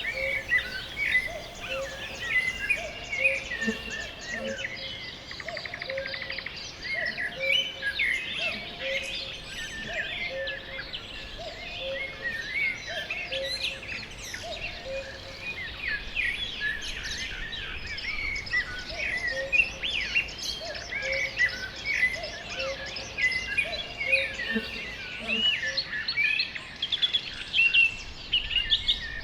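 Several songbirds singing together in a spring forest, a dense mix of overlapping chirps and trills. Beneath them a lower call repeats steadily about every three-quarters of a second, pausing for a few seconds partway through.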